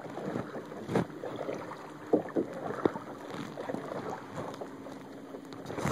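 Kayak being paddled: water swishing and splashing around the paddle, with a few knocks, and wind on the microphone.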